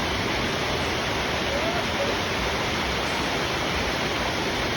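Waterfall pouring: a steady, even rush of falling water with no let-up.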